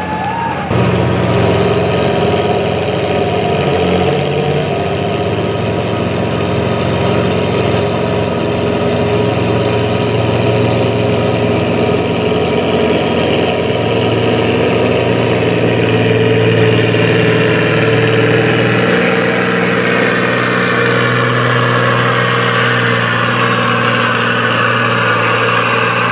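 Farm pulling tractor's engine running steadily at a nearly constant pitch, loud throughout.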